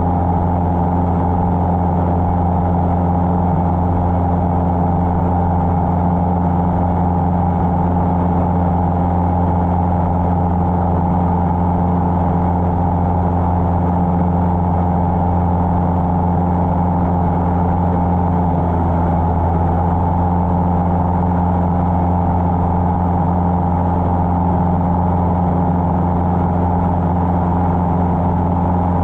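Cessna 150's Continental O-200 four-cylinder piston engine and propeller running at a steady cruise power, an unbroken drone with no change in pitch.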